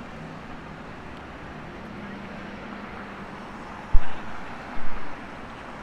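Steady city street traffic noise. Two brief, very low thumps stand out, one about four seconds in and a doubled one just under a second later.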